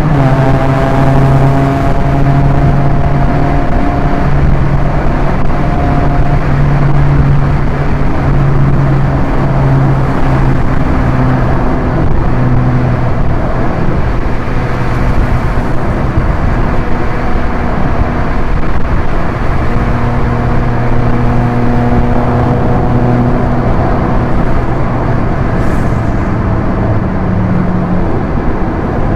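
Proton Inspira 1.8 manual's four-cylinder MIVEC engine pulling steadily at highway speed, with loud wind and tyre noise. A gear change comes right at the start, and the engine note then climbs slowly as the car gathers speed.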